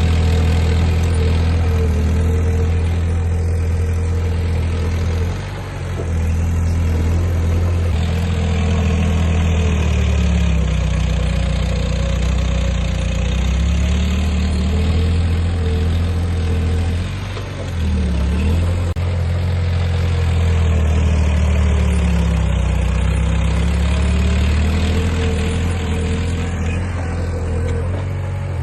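Diesel engine of a piece of heavy earthmoving equipment running steadily. Its pitch sags and rises a few times as the load changes, and the level drops briefly about five seconds in and again about seventeen seconds in.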